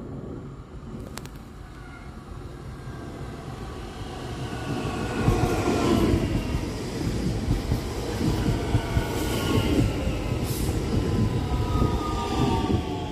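DB Regio electric multiple unit passing close by: rumble of wheels on rail that swells about four seconds in, with a whine from its electric drive falling in pitch as it goes by. A single sharp click about a second in.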